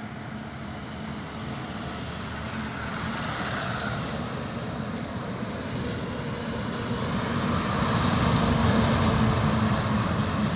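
Heavy truck on a highway: engine hum and tyre noise growing steadily louder, loudest about eight seconds in, then easing slightly.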